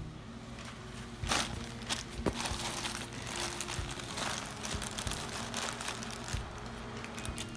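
Plastic packaging crinkling and crackling in irregular bursts as it is handled and opened.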